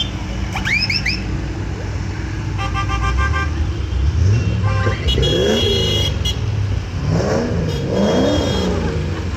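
Tractor engines running, with horns tooting: three quick rising toots about a second in, a pulsed horn around three seconds, and another horn at five to six seconds. Engines rev up and down several times in the second half.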